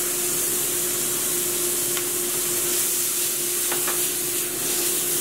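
Corn sautéing in a frying pan, sizzling steadily, with a few light clicks as the pan is worked. A steady low hum runs underneath.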